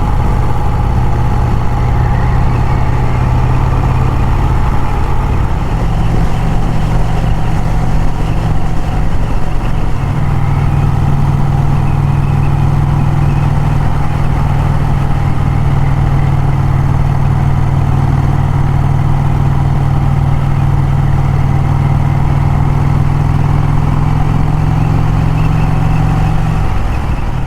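Vincent motorcycle engine running steadily on the road at cruising speed; its low note grows a little stronger about ten seconds in.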